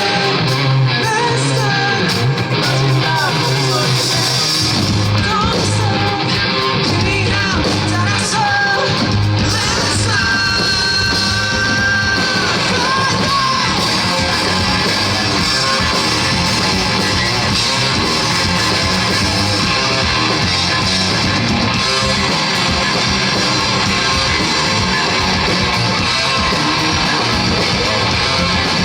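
Live rock band playing loudly: electric guitars, bass and drums, with a sung and shouted lead vocal through roughly the first half.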